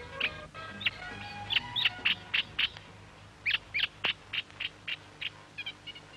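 Birdsong: a run of short, sharp chirps, roughly three a second, over sustained music notes that fade out about two seconds in.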